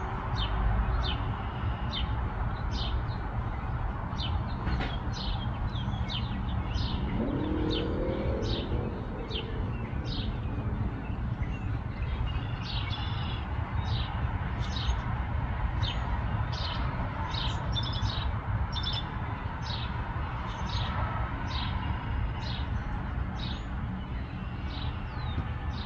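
Small birds chirping repeatedly, short high downward-sweeping chirps coming about one or two a second, over a steady low background rumble.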